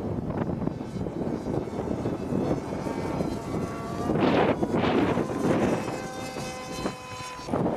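Electric radio-controlled model aircraft flying, its motor and propeller giving a steady whine that steps in pitch a few times. Two gusts of wind hit the microphone a little past halfway.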